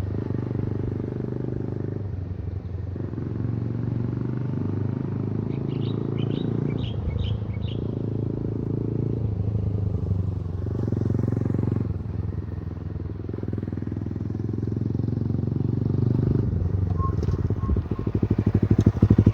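Honda Grom (MSX125) single-cylinder four-stroke engine running through an aftermarket K-Factory exhaust. Its note changes every second or two, and it turns louder with an even pulsing near the end.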